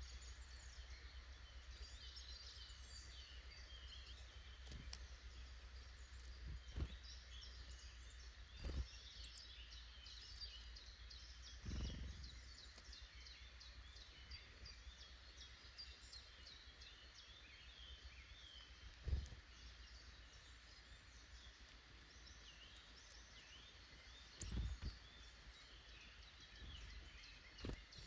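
Faint chorus of woodland songbirds, many short overlapping chirps and calls, with several brief soft low thumps scattered through it.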